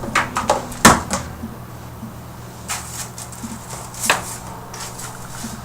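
Knocks, clatters and rustling of things being handled and moved about, the loudest knock a little under a second in, over a steady low hum.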